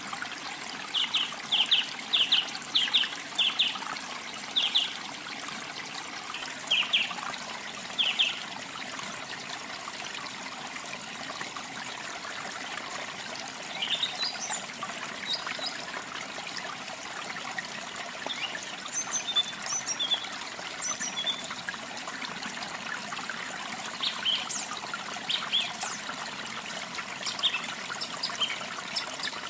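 Running water, a steady trickling rush, with small birds chirping over it. Quick clusters of short chirps come in the first several seconds, and scattered higher chirps follow later.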